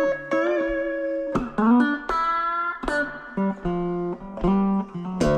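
Guitar music: single plucked notes, some sliding up in pitch.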